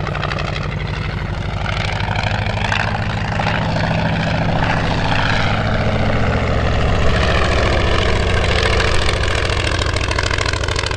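Piston-engined propeller aeroplane running steadily, its engine note growing a little louder in the middle.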